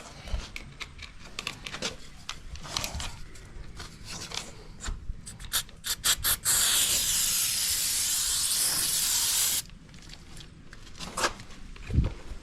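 Clicks and handling noise with a quick run of sharp clicks, then an aerosol spray can hissing steadily for about three seconds before cutting off suddenly.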